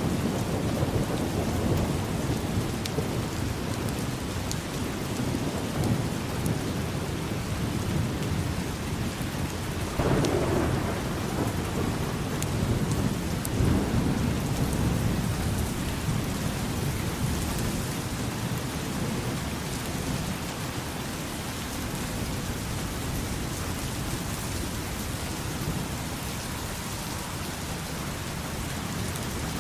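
Steady rain falling, with rolling thunder rumbling underneath; the thunder swells about ten seconds in and again shortly after, then dies down, leaving mostly the rain.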